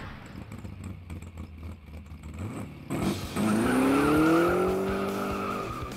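Car engine revving as an intro sound effect: a low rumble, then about halfway in a rev that rises in pitch, holds, and fades away near the end.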